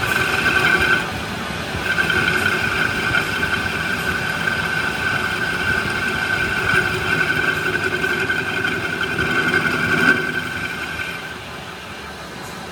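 A workshop machine running with a steady high whine. It dips briefly about a second in, resumes, and dies away near the end.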